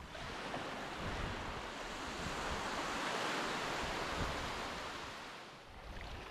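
Sea water rushing, like a wave washing in: a noisy swell that builds to a peak about three seconds in and dies away near the end.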